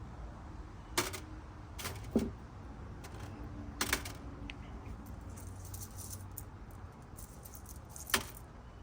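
Rough black opal stones clinking against each other and their container as they are handled, five or so sharp separate clicks over a low steady hum.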